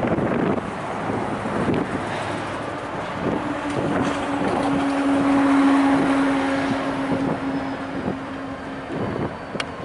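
A train passing trackside, growing louder to a peak about halfway through and then fading, with a steady hum through the middle of the pass. Wind buffets the microphone throughout.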